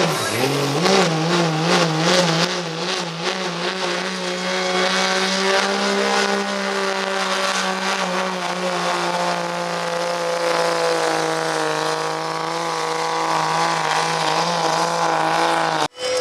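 Diesel pickup truck engine at full throttle pulling a weight-transfer sled. The revs waver up and down for the first few seconds, then hold steady and high, and the sound cuts off abruptly near the end.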